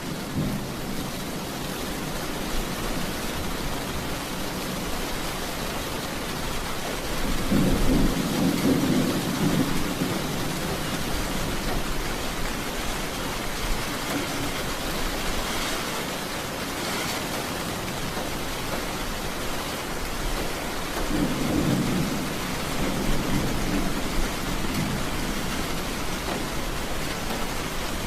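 Steady rain in a thunderstorm, with two low rolls of thunder: one about a quarter of the way in that lasts a couple of seconds, and another past the three-quarter mark.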